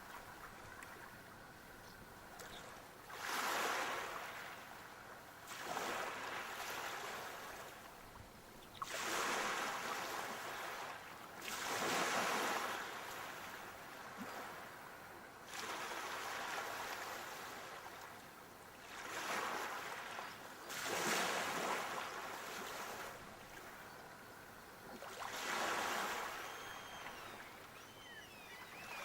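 Sea waves breaking and washing up the shore: about eight surges of rushing water, one every three to four seconds, each swelling and then dying back.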